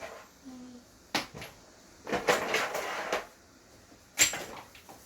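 Hard plastic toy figures knocking together: two sharp knocks, about a second in and again about four seconds in, with about a second of rattling clatter between them.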